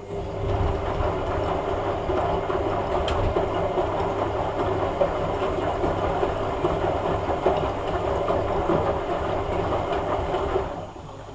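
Hoover A3786 Logic washing machine's motor turning the drum for about ten seconds: a steady mechanical run with a low rumble and a steady hum, starting suddenly and stopping shortly before the end.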